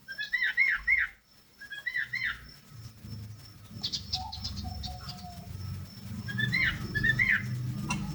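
Sooty-headed bulbul singing its whistled 'tew tetetew' song: three short phrases of quick rising-and-falling notes, one at the start, one about two seconds in and one near the end, with a few higher chirps between. A low rumble builds underneath from about a third of the way in.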